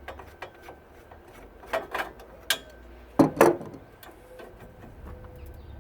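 A few sharp metal knocks and clinks from handling and unscrewing the water heater's copper and brass fittings by hand, the loudest pair about three seconds in.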